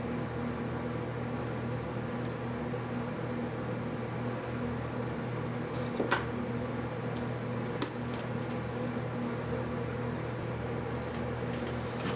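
Steady low hum in the room, with two small sharp clicks about six and eight seconds in.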